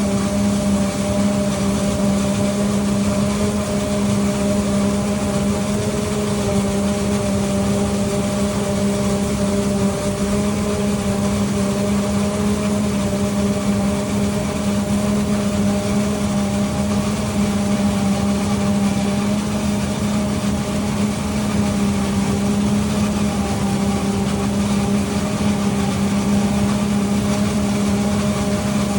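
Harvest machinery running at a constant speed during corn silage chopping: a steady engine hum with an unchanging tone and no revving.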